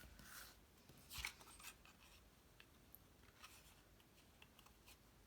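Faint rustling and a few light ticks of cardstock pieces being handled and pressed down as a glued paper piece is set in place, the clearest rustle about a second in.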